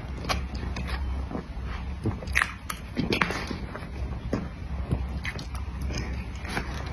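Eating sounds of a person chewing cream cake: irregular mouth clicks and smacks, a few louder ones between about two and a half and three seconds in.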